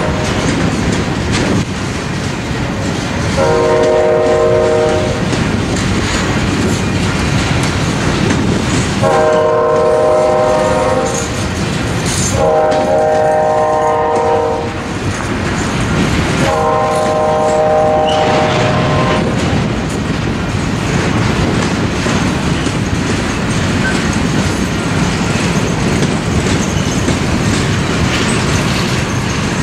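Loaded covered hopper cars of a freight train rolling past, with a steady rumble and the clickety-clack of wheels over rail joints. A multi-chime locomotive horn sounds four blasts of one to two and a half seconds each, spread over the first twenty seconds.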